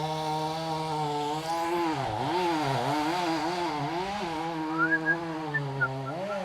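A two-stroke chainsaw running at high revs. Its pitch dips and wavers from about two seconds in and again near the end, as its speed changes.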